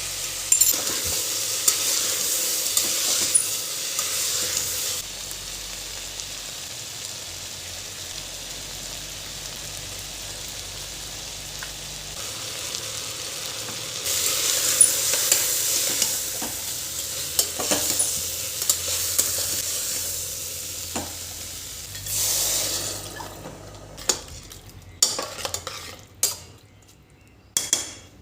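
Food sizzling as it fries in a pan while it is stirred. The sizzle is loud at the start, dies down, and swells again around the middle. Near the end it gives way to a few separate knocks and clinks.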